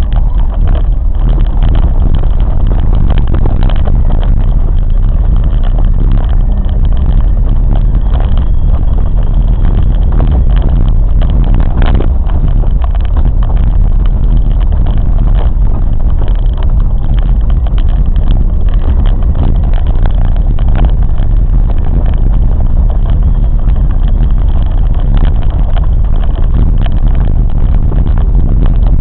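Train running steadily at speed: a loud, continuous low rumble with no let-up.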